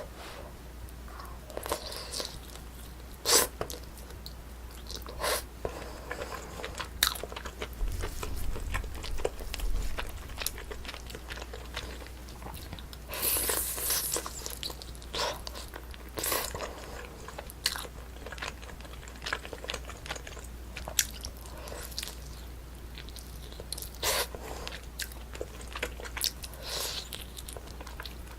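Close-miked eating of Korean braised spicy chicken: chewing and biting with scattered sharp mouth clicks, and a longer, denser stretch of chewing about halfway through.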